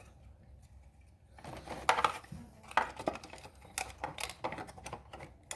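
Light plastic clicks and knocks as a circuit board is handled and seated into a microwave's plastic control panel, beginning about a second and a half in and repeating irregularly.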